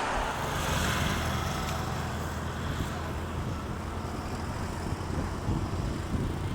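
An engine running with a steady low hum under a rushing noise that is strongest in the first second or two.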